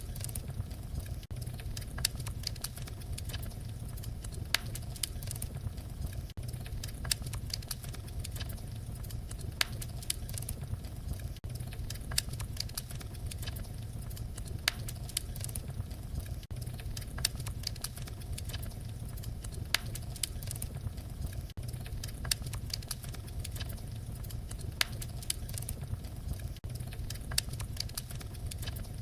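Wood fire burning with a steady low rumble and irregular sharp crackles and pops, a few of them much louder than the rest.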